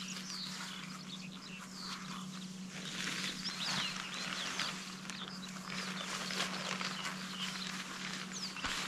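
Small birds chirping and singing, many short quick notes, over a steady low hum.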